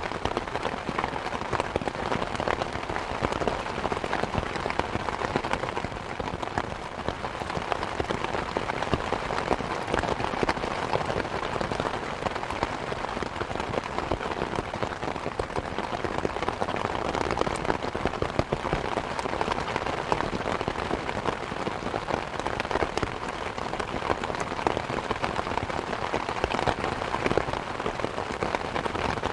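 Steady rain pattering, mixed with a wood fire crackling and popping in a fireplace.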